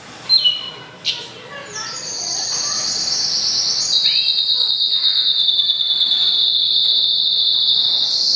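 Goldfinch × canary mule singing: a short falling call, then from about two seconds in one long, fast, high trill that steps down a little in pitch about halfway through.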